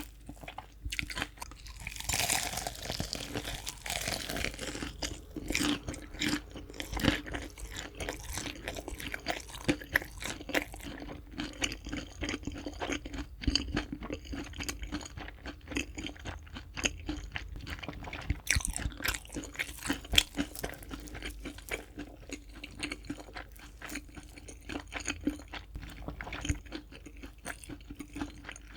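Close-miked eating of crispy fried chicken: dense crackling crunches of the fried coating as it is bitten and chewed, loudest at a big bite about two seconds in.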